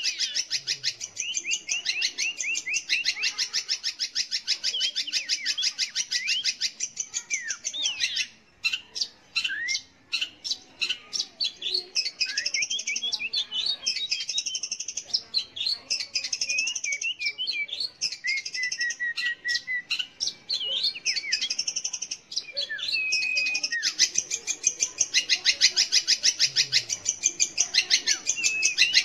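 Long-tailed shrike (cendet) singing a fast, continuous chatter of rapid repeated sharp notes, mixed with whistled slides and mimicked calls of other birds. The chatter breaks into more separate notes for a few seconds a third of the way in, then runs dense and louder again near the end.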